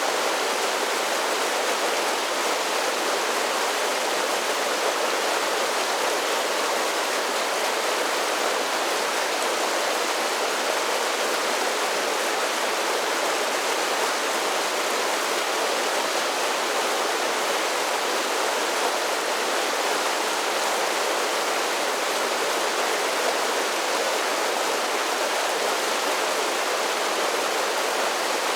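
Mountain creek water tumbling over a series of small falls: a steady, even rush and splash with no pauses.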